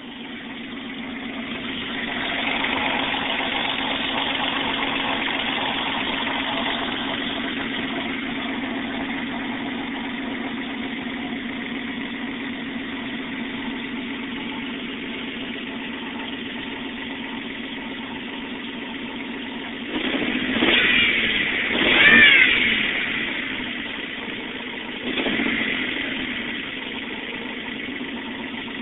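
1994 Toyota 4Runner's 3.0-litre V6, freshly top-end rebuilt, coming up to a steady idle. About twenty seconds in it is revved briefly three times, each rev rising in pitch and falling back to idle.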